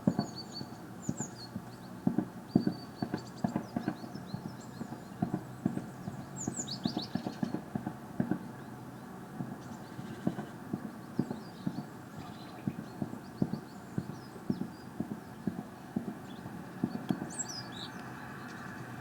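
Small birds giving short, high chirps over a run of irregular knocks and clatters, several a second.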